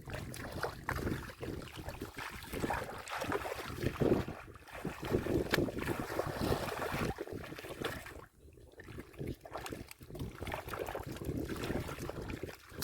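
Irregular splashing and sloshing of water, as if hands and bodies are moving through shallow muddy water, with wind noise on the microphone.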